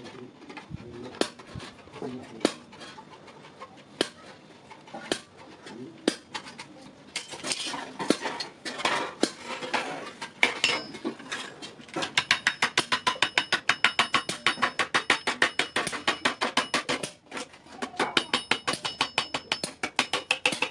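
Hammer striking iron on an anvil: scattered single blows at first, then past the middle a fast run of ringing metal-on-metal strikes, about five a second, with a brief pause near the end before it resumes.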